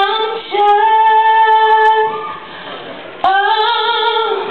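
A woman singing long, slowly bending held notes. The first runs about two seconds and the next comes in about a second later.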